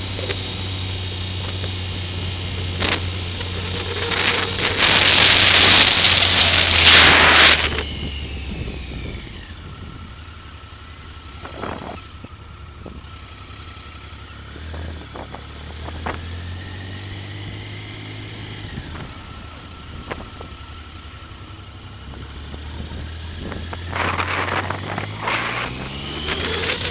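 Triumph Sprint ST 955i's three-cylinder engine running on the move, its pitch falling and rising as the speed changes, under wind noise on the camera's built-in microphone. The wind rush swells loud about five seconds in and again just before the end, as the bike picks up speed.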